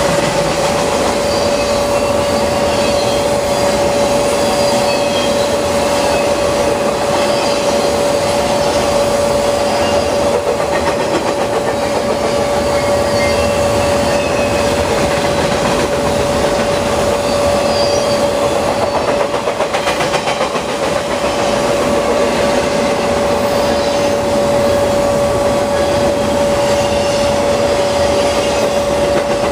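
Double-stack intermodal freight cars passing at speed: a loud, steady rush of steel wheels on rail, with a steady ringing tone over it.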